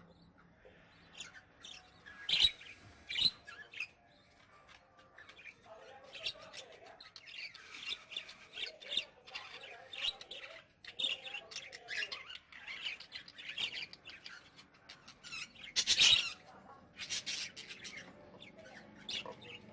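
A flock of caged budgies and cockatiels chirping and chattering continuously, with a few louder, sharper squawks standing out, the loudest about two and a half seconds in and again near sixteen seconds.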